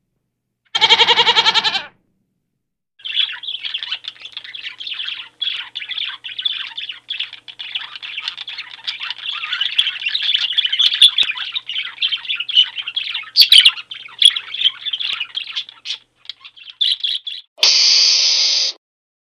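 A bird chirping and chattering in a rapid, continuous stream of high notes for about fourteen seconds. It is preceded by one short pitched animal call about a second in, and followed near the end by a brief burst of hiss-like noise.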